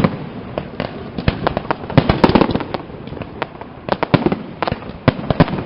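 Castillo fireworks display: shells bursting in rapid, irregular sharp bangs and crackles, densest about two seconds in and again around four seconds.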